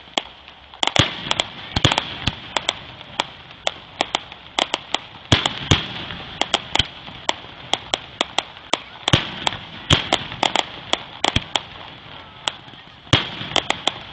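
Aerial fireworks going off: a dense, irregular run of sharp bangs and pops, several a second, over a steady crackling hiss.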